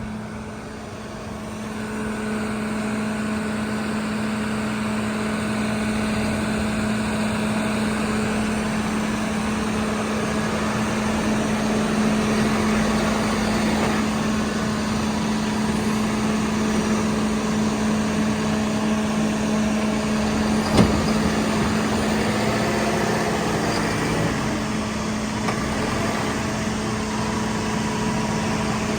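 Tractor engine running steadily at an even speed, with a single sharp knock about three quarters of the way through.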